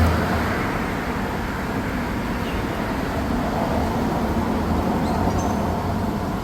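Steady road traffic noise, with the low hum of a motor vehicle running.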